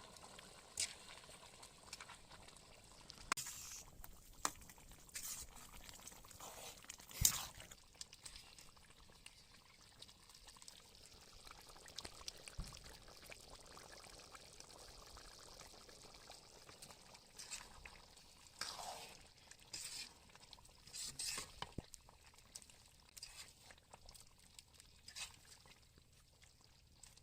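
Chicken gravy bubbling in a pot as it is left to boil, thickened by the chicken's own juices with no water added: faint, irregular pops and gurgles.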